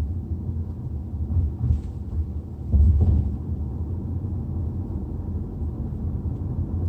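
Low, steady road and engine rumble inside the cabin of a Hyundai Tucson SUV driving slowly, swelling louder for a moment about three seconds in.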